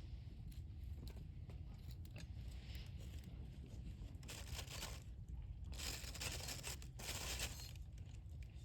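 Campfire crackling with scattered small pops over a steady low rumble, and three louder bursts of rustling, scraping noise about four to seven and a half seconds in.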